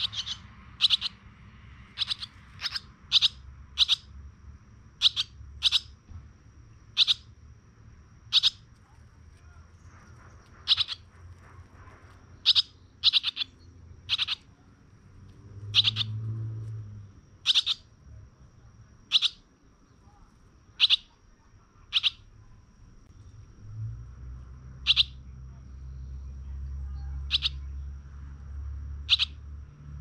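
A bird chirping: single short, high chirps, irregularly spaced at roughly one a second.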